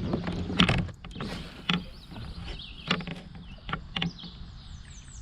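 Irregular knocks and clunks of fishing gear being handled against a plastic kayak, about five in all, with faint high bird chirps near the end.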